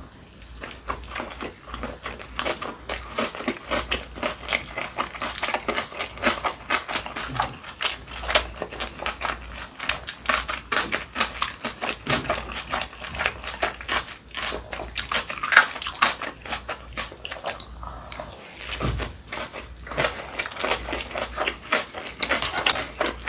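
Close-miked chewing of a mouthful of kimchi kimbap: a dense, continuous run of wet, crunchy mouth clicks.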